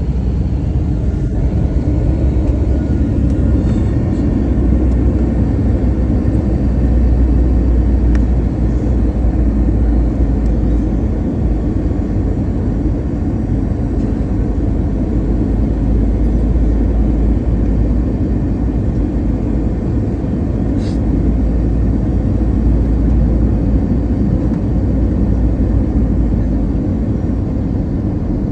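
Airbus A321 cabin noise on landing: a steady, loud, deep rumble of jet engines and airflow, heard from inside the cabin.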